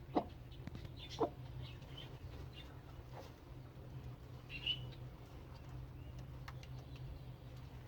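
Domestic chickens giving a few brief, soft clucks and calls, spaced out over a faint steady low hum.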